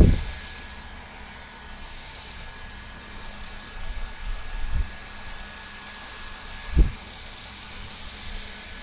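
Handheld mini fan running, a steady airy whir with a faint high motor whine. A few short low thumps break in, at the start and again about 5 and 7 seconds in.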